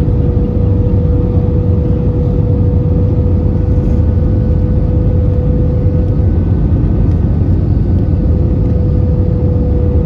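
Steady cabin noise inside an Airbus A320-214: a loud, even rumble of airflow and engines with a constant hum held at one pitch.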